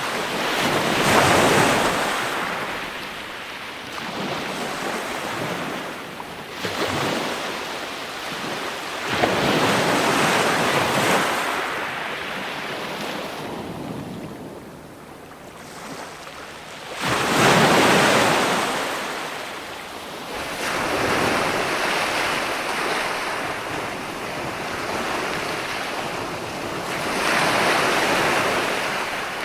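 Ocean surf: waves breaking and washing on the shore in slow swells that rise and fade, the biggest surges coming every several seconds.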